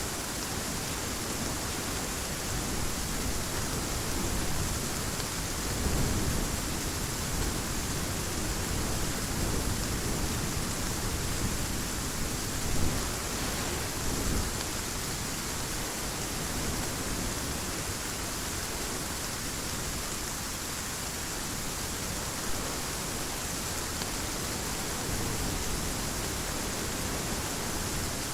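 Heavy rain falling steadily, with low thunder rumbles swelling up about six seconds in and again around twelve to fifteen seconds, one with a sharp crack.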